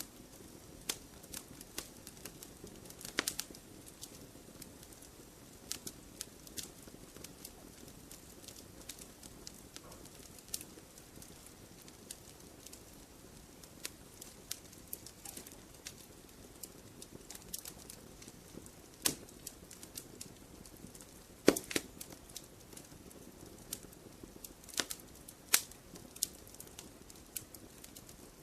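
Wood fire crackling in a fireplace: irregular sharp pops and snaps over a soft steady hiss, the loudest pop about three quarters of the way through.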